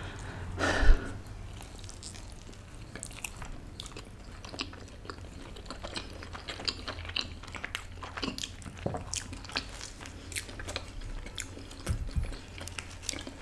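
Two people biting and chewing slices of Domino's Cheese Dominator pizza, a steady run of small mouth clicks, with one louder mouth sound about a second in.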